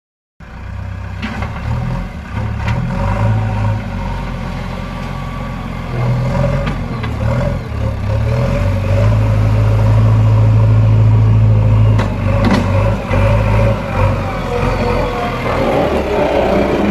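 Heavy diesel machinery engine running under changing load, its note rising and falling and strongest for a few seconds in the middle, with a few sharp knocks over it.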